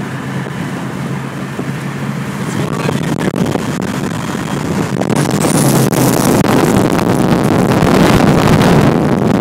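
Wind and road noise of a car moving at highway speed, with a steady low engine hum underneath; the wind rush on the microphone grows louder from about three seconds in.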